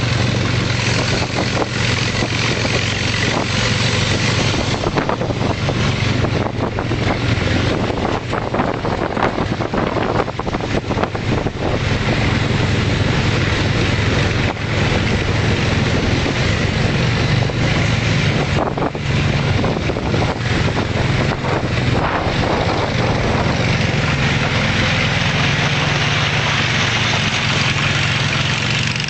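Volvo T31 tractor engine running steadily, its pitch shifting slightly a few times.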